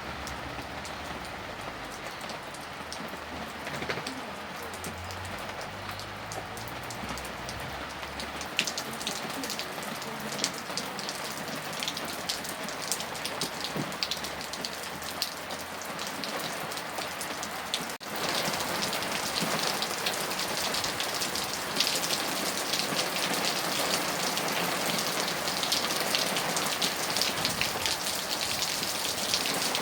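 Steady rain falling on a hard surface, with many individual drops ticking. About two-thirds of the way through it dips for a moment and then comes back heavier and louder.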